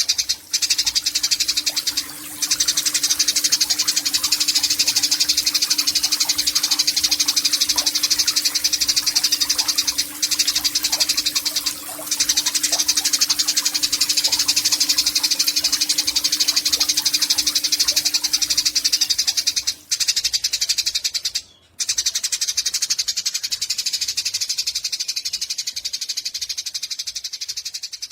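Eurasian tree sparrow giving a long, fast, high chattering trill (the 'nyecret' call), broken by a few brief pauses.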